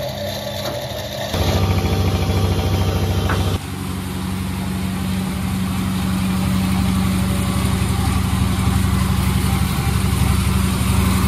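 An engine running steadily, with its sound changing abruptly about one and a half and three and a half seconds in.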